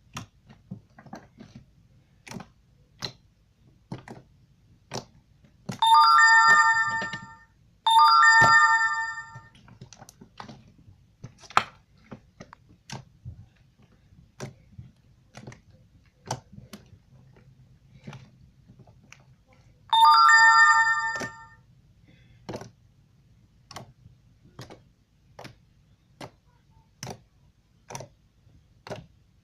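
Sand slime being poked and pressed on a desk, giving short soft clicks every second or so. A ringing chime like a phone ringtone sounds three times, each about a second and a half, about six, eight and twenty seconds in; it is the loudest sound.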